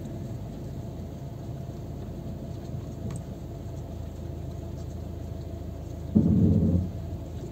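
Steady low rumble of a car, with a louder, longer burst of low rumbling about six seconds in.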